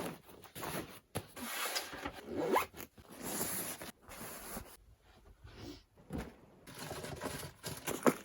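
A clothing zipper pulled several times in quick, noisy strokes, some sweeping upward in pitch.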